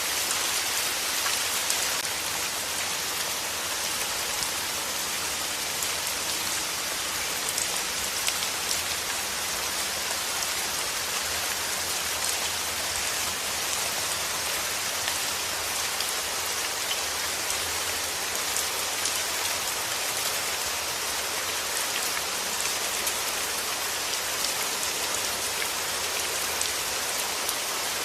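Steady rain falling on a surface: an even, dense hiss of drops, strongest in the high range, with single drops standing out now and then.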